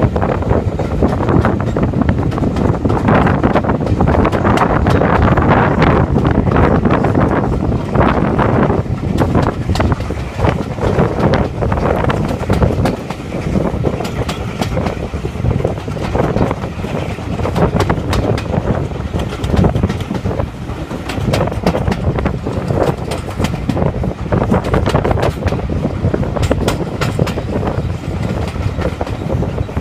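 Steam-hauled passenger train running, heard from an open carriage window: a loud, steady running noise with frequent sharp clicks of the wheels over the rail joints.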